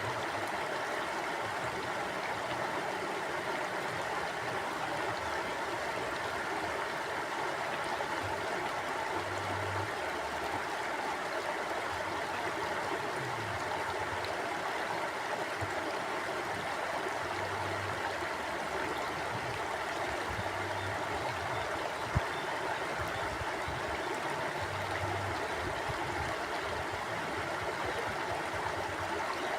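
Mountain stream flowing steadily over rocks, an even rushing of water, with lower gurgles coming and going. A single sharp click sounds about two-thirds of the way through.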